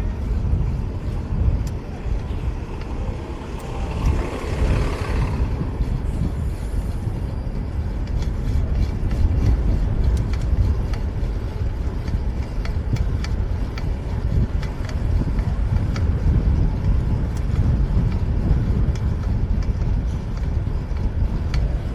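Steady low rumble of city street traffic and wind over the microphone of a camera riding on a moving bicycle, with a louder hissing pass about four seconds in.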